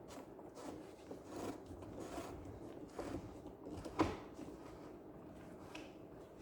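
Faint rubbing and scraping handling noises, with a single sharp knock about four seconds in.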